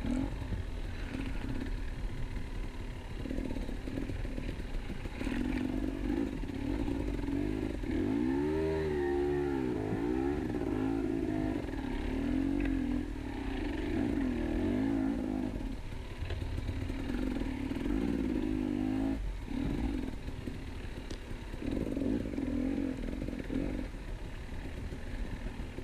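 KTM 250 EXC two-stroke enduro motorcycle engine running under throttle on an off-road trail, its pitch rising and falling as the rider revs it up and backs off, with a sharper rev swing about a third of the way in.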